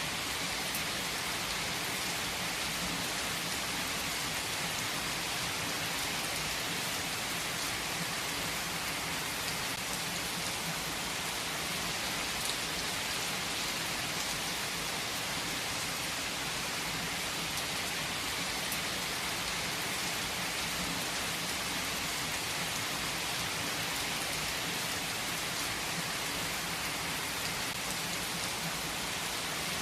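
Heavy rain falling steadily on surfaces: a dense, even hiss with scattered individual drop ticks.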